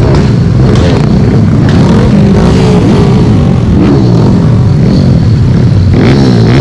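Vehicle engines running and revving, their pitch rising and falling again and again.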